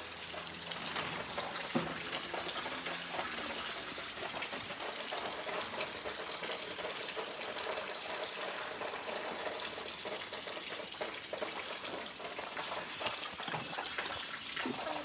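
Steady rain, a continuous rush of water with many small patters.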